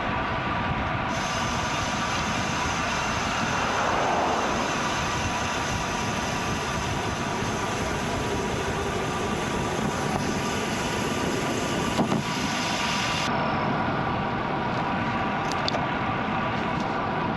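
Steady rolling noise of a bicycle ride, with tyre noise on the road and wind on the helmet or bike camera's microphone, and faint steady tones through it. A hiss comes in abruptly about a second in and stops abruptly near thirteen seconds. There is one sharp click about twelve seconds in.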